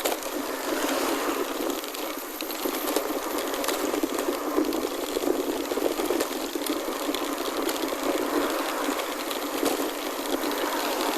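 Chromoly gravel bike rolling along a gravel forest road: a steady rushing noise of tyres on gravel, with small clicks and rattles from the bike.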